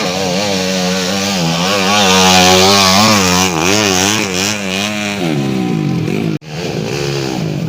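Trail motorcycle engine revving hard, its pitch rising and falling rapidly as the throttle is worked, then dropping away about five seconds in. A second engine takes over after an abrupt cut near the end.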